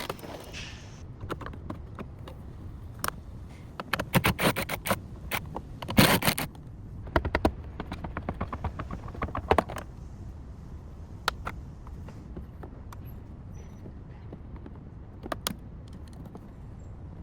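Scattered sharp clicks, knocks and scrapes of tools and car parts being handled during body repair work. A burst of knocks comes about four seconds in, the loudest knock about two seconds later, then sparser clicks with a quieter stretch near the end.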